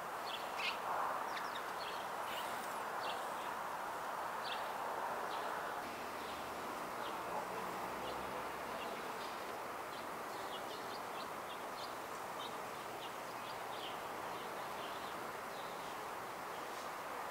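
Outdoor ambience of small birds chirping, short high calls scattered all through, over a steady background hiss.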